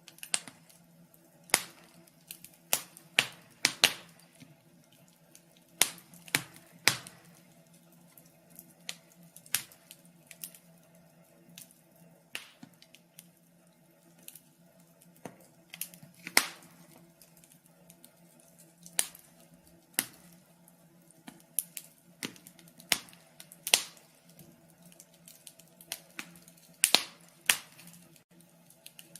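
Wood fire crackling in a fireplace: irregular sharp pops and snaps, a few a second at the busiest, over a faint steady hum.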